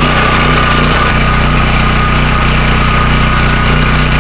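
Portable generator's small engine running steadily at constant speed, just started to test a hookup that feeds a house's breaker panel.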